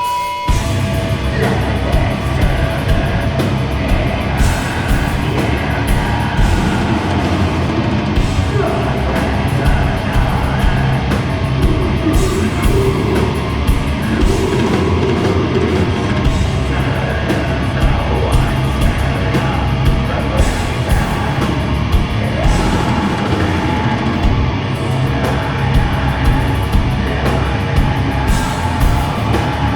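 Grindcore band playing live at full volume: fast, dense drums and heavily distorted guitar and bass. A held feedback tone cuts off about half a second in, as the whole band crashes in.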